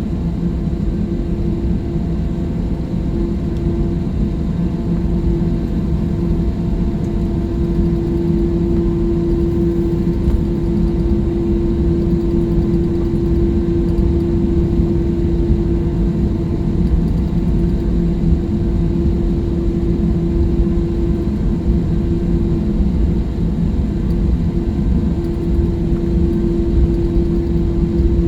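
Jet airliner engines heard inside the passenger cabin: a steady drone with a constant hum over a low rumble.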